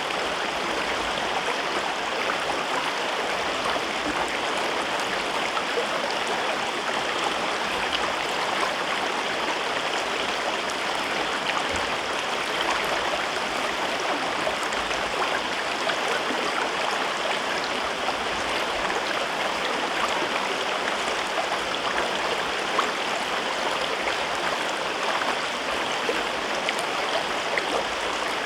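River water flowing through a gorge: a steady rushing with fine splashing and gurgling throughout, with no change in level.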